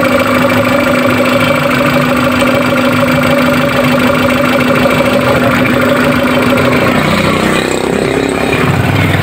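Suzuki Cultus's three-cylinder petrol engine idling steadily, warm, just after a throttle body cleaning and refit, settled at about 800 rpm. The tone of its running changes about seven seconds in.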